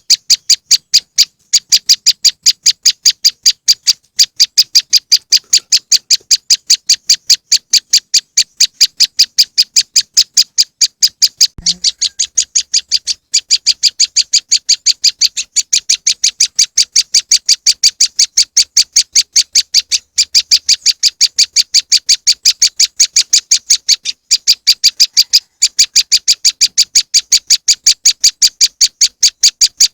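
Prenjak lumut (moss wren) call played as a bird lure: a rapid, unbroken series of short, high chip notes, about five a second, with only brief breaks. There is a single low thump about eleven seconds in.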